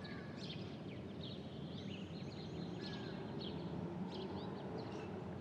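Birds chirping: many short, quick calls over a steady low background hiss.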